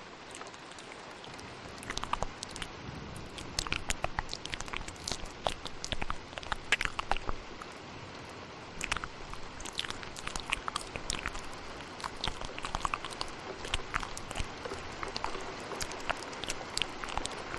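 Wet ASMR mouth sounds, irregular clicks and smacks close to the microphone, several a second at times, layered over a steady hiss of rain.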